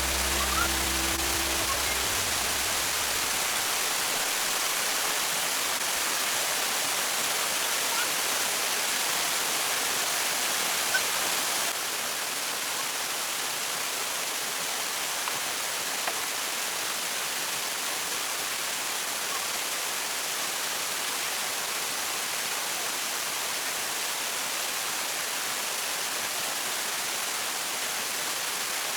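Steady rushing noise of water, dropping a little in level about twelve seconds in.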